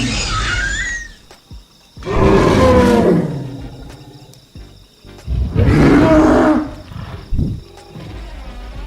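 Animatronic dinosaur sound effects from an exhibit's speakers: a high, gliding screech at the start, then two loud, deep roars, each about a second and a half long, with a short low thump near the end.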